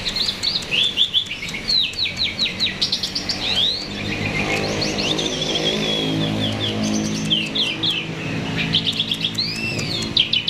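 Starling (jalak) singing hard, a rapid, continuous string of chirps and whistles. A low droning hum runs beneath it from about four seconds in.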